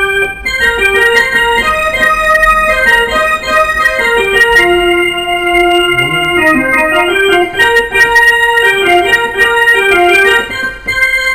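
Electronic keyboard playing a melody over chords in a sustained, organ-like voice, its notes held at steady pitch rather than dying away. The playing breaks off briefly about half a second in and again near the end.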